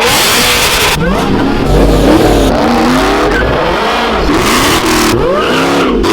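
Car engines revving hard, pitch climbing and dropping again about once a second, in a string of short clips cut together.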